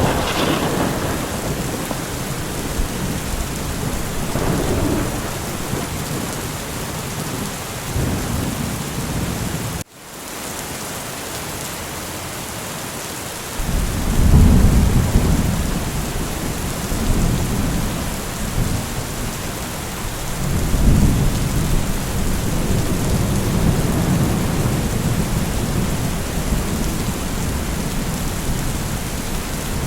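Steady rain with rolling thunder rumbling low underneath. About ten seconds in the sound briefly cuts out, like an edit splice, then the thunder swells twice more in the second half.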